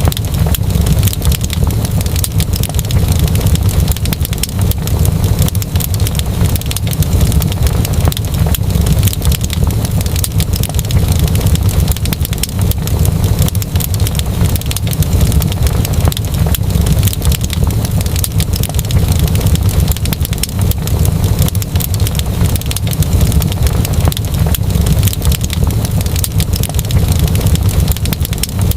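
Wood fire crackling steadily in a fireplace, with dense irregular pops and snaps over a continuous low rumble.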